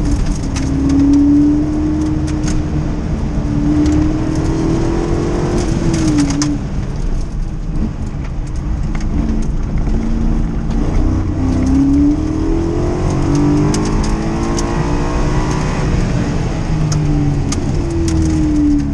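1979 Corvette's V8 engine heard from inside the cabin under hard acceleration on a hillclimb run. The engine note climbs in pitch, falls away sharply about six seconds in, climbs again and falls once more near sixteen seconds, with scattered light ticks over it.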